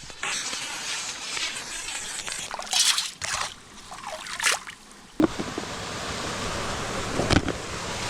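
Water trickling and sloshing in a few short splashes, then about five seconds in a steady hiss of running water starts abruptly, with one thump near the end.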